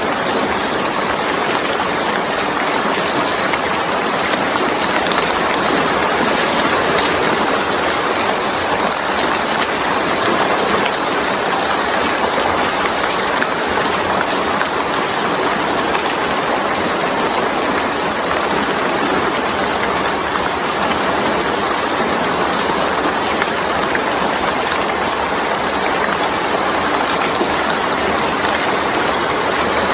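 Steady heavy rain falling: an even, unbroken hiss of water that never lets up.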